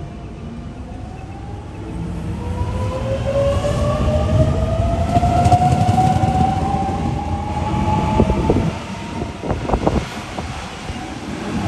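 Sydney Trains Millennium (M-set) electric train pulling away: its traction motors whine, rising steadily in pitch as it accelerates, over a low rumble. A few wheel clacks come near the end.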